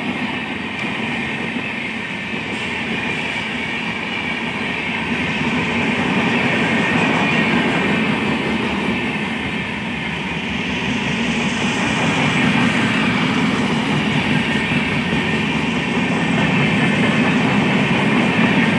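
Express train's LHB passenger coaches passing at speed: a steady rumble and hiss of wheels on rail, with some clickety-clack over the rail joints. It grows a little louder about halfway through.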